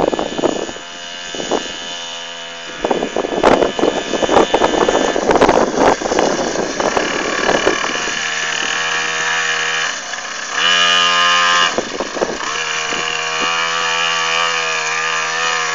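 Small 49cc dirt bike engine running: uneven and gusty for the first few seconds, then idling steadily, with one brief rev for about a second near the eleven-second mark before it drops back to idle.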